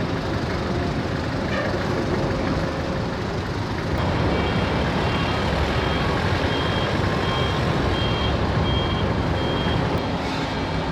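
Steady heavy engine rumble, with an electronic warning beeper starting about four seconds in and sounding short high beeps about twice a second, like a reversing alarm during unloading at the ferry terminal.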